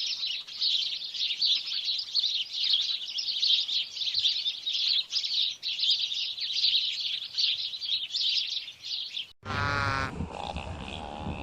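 Many small birds chirping at once in a dense, continuous high-pitched chorus, which cuts off abruptly about nine seconds in. A different animal's sound follows: a short pitched call, then low grunting.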